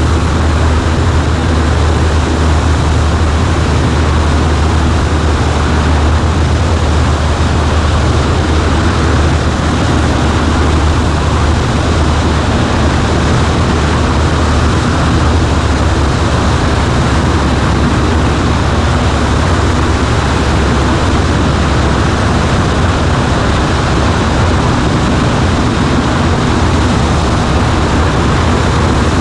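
Cessna 140A's four-cylinder engine and propeller running steadily in flight: a constant low drone under a steady rush of noise, with no change in pitch or level.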